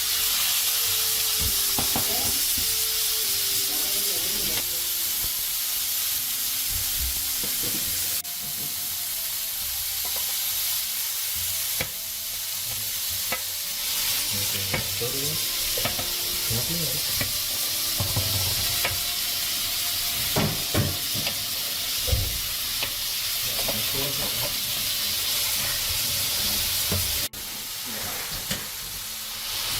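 Food frying with a steady, hissing sizzle, with scattered knocks and scrapes of cooking utensils.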